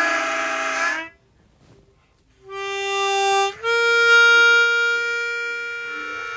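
Suzuki Sirius S48B bass chromatic harmonica played through a Boss MD500 modulation effects pedal with added reverb. A held note with a wavering modulation breaks off about a second in; after a pause of over a second a short note sounds, then a long steady held note.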